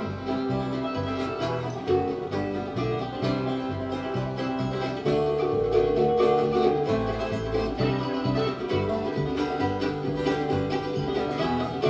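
Live bluegrass band playing an instrumental break between sung verses, with banjo and guitar picking over a steady beat.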